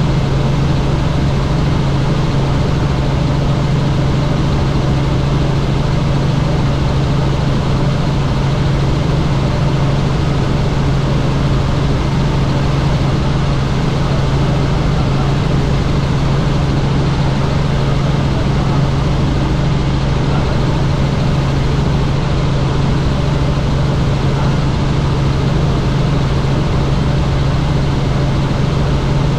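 Helicopter in flight: a steady, loud drone of rotor and engine with a strong low hum that does not change.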